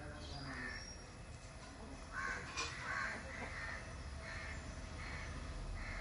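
Bird giving a series of short, harsh caw-like calls, about seven of them, coming closer together after about two seconds.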